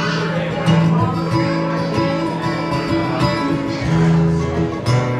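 Live band playing an instrumental passage: plucked acoustic guitar over held bass notes, with no singing.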